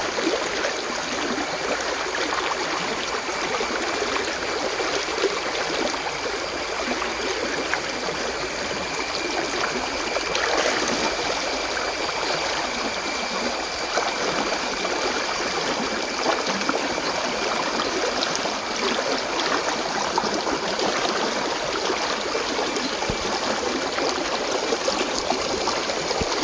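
A small stream flowing and babbling steadily over stones, with a thin, steady high-pitched tone above the water.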